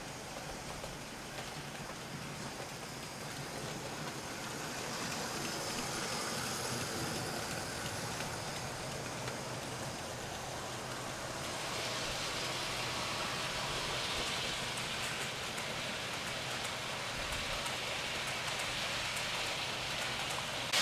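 00 gauge tender-drive model of the LNER A4 locomotive 4498 Sir Nigel Gresley running at speed on its track, a steady rushing whirr of motor and wheels on rails. It grows louder about four seconds in and again about twelve seconds in.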